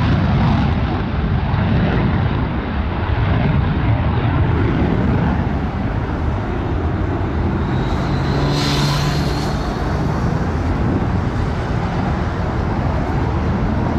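Aircraft engine noise from an airplane in flight, a loud, steady rumbling roar. About eight and a half seconds in it swells briefly with a higher-pitched edge, as the aircraft passes closest.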